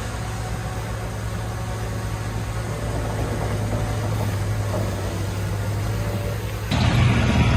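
Heavy diesel engine of earthmoving machinery running steadily with a low hum; near the end it cuts suddenly to a louder engine sound.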